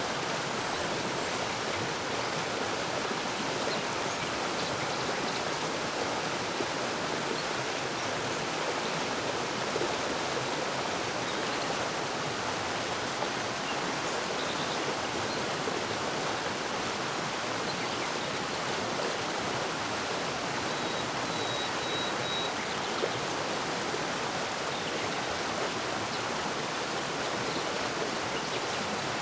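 Forest stream flowing, a steady rush of water. A few faint, short bird chirps sit high above it, most clearly a brief run of notes about two-thirds of the way through.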